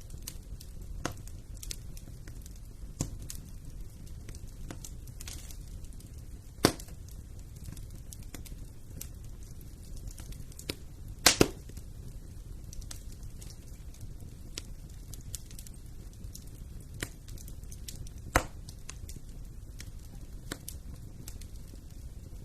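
Fire burning in a fireplace: continual light crackling over a low steady rumble of the flames, with a few loud sharp pops, one about a third of the way in, a quick double pop near the middle and another about four-fifths through.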